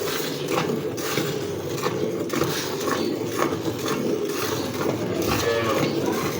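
Cow being milked by hand: jets of milk squirting into the pail in short strokes at an even pace.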